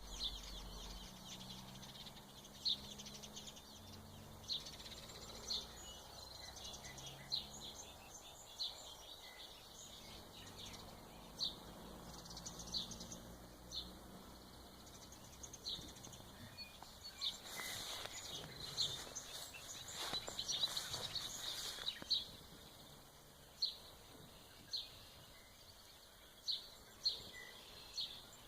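Songbirds chirping: short high chirps repeat about once a second over a faint steady background, with a busier, louder spell of calls about two-thirds of the way through.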